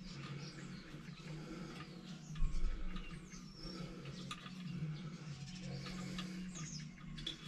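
Small birds chirping and twittering over a low steady hum, with a dull thump about two and a half seconds in and a few light clicks.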